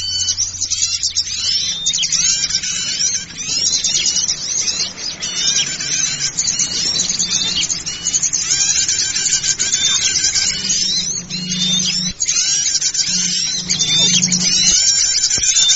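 A dense chorus of many small forest birds chirping and twittering at once, calls overlapping without a break, as in a recording played to lure small birds. A low steady hum runs underneath.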